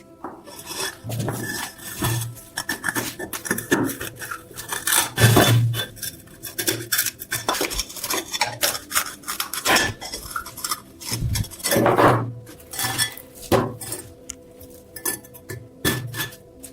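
Hand work on metal: irregular scraping and clinking strokes of a tool against metal, some with a dull thud.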